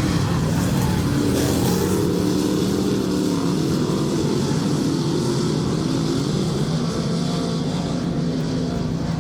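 Dirt track race cars running laps on the oval, several engines droning together with their pitch rising and falling as they go around.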